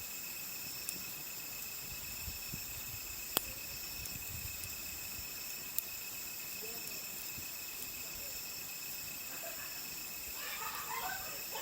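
Steady chorus of night insects, several high steady chirring tones at once, with the occasional sharp pop from a wood campfire: one loud pop about three and a half seconds in and another near six seconds.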